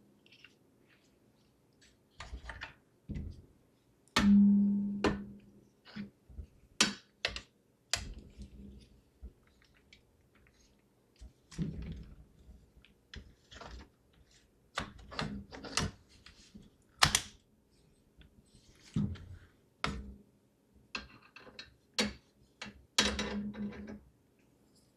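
Irregular clicks, taps and knocks of hard computer parts being handled and fitted into a small-form-factor PC case. The loudest knock, about four seconds in, rings briefly and low.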